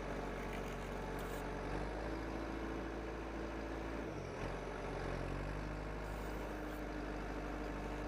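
Vehicle engine running with a steady low hum, its pitch dipping briefly and coming back up about four seconds in.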